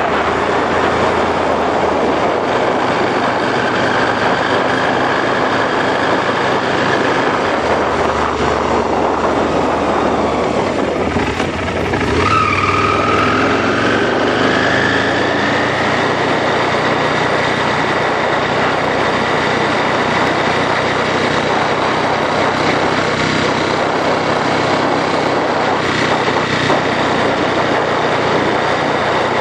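2001 Aprilia Falco's 1000 cc V-twin engine running under way, heard from the saddle over wind noise. The engine note dips briefly a little before the middle, then climbs for a few seconds and holds steady.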